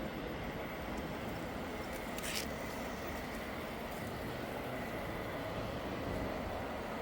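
Steady background din of a model show hall with RC model trucks running, and one short hiss about two seconds in.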